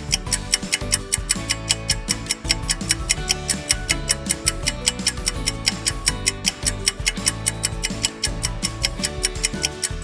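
Countdown-timer sound effect: a steady, rapid clock-like ticking over light background music with held notes.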